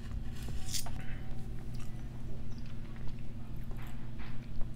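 Chewing a mouthful of California roll sushi close to the microphone: irregular soft mouth sounds and small clicks over a steady low hum.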